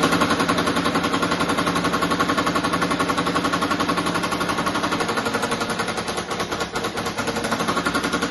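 Milwaukee M12 FUEL impact driver on setting 1 driving a 2.5-inch exterior wood screw, its hammer mechanism impacting in a fast, steady rattle that stops suddenly at the end.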